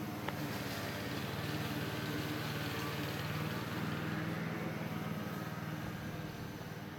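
A motor vehicle passing by, growing louder toward the middle and then fading, with a single sharp click just after the start.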